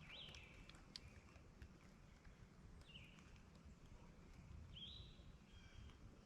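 Near-silent woods with faint bird calls: three short high notes, each sweeping up and then held, a couple of seconds apart, over a low rumble of wind.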